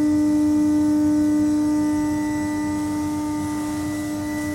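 Steady electrical hum from a high-temperature graphitization furnace's power equipment: one strong unchanging tone with fainter overtones over a low rumble. It drops a little in level about two seconds in.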